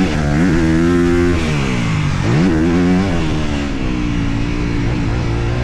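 Honda CRF250R dirt bike's single-cylinder four-stroke engine revving hard under throttle while being ridden: the pitch climbs, holds and drops twice, then runs steadier and lower, over a constant rush of wind and riding noise.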